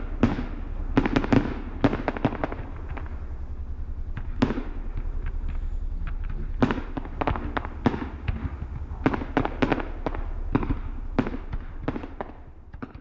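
Fireworks going off: an irregular run of sharp bangs and crackles, some in quick clusters, over a steady low rumble, fading out at the very end.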